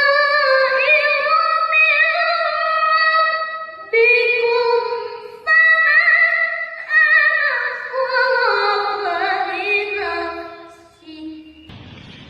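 A boy's high voice reciting the Quran in melodic tilawah style, holding long ornamented notes and winding down in descending runs until the phrase fades out about eleven seconds in. A short rush of noise follows near the end.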